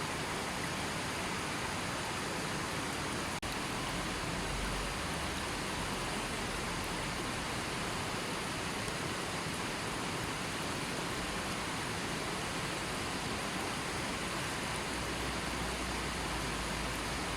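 Gentle river flowing: a steady, even rush of water with no birds or other sounds. A momentary drop-out comes about three and a half seconds in.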